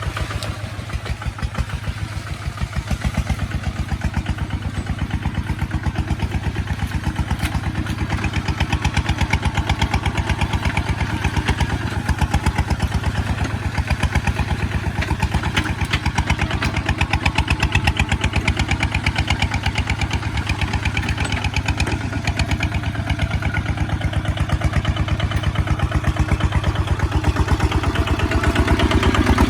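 Kubota ZT155 single-cylinder diesel engine running steadily, with an even, rapid chug. It gets a little louder about eight seconds in and again near the end.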